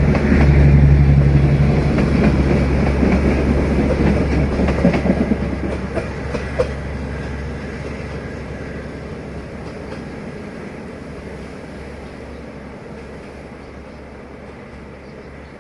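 Passenger train hauled by a D19E diesel-electric locomotive passing, with a low engine hum and wheels clicking over the rail joints. The sound fades steadily as the train moves away, and the clicks die out about halfway through.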